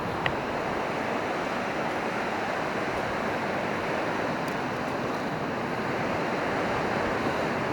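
Steady wash of surf breaking on the beach, with some wind on the microphone. A brief high blip sounds about a quarter second in.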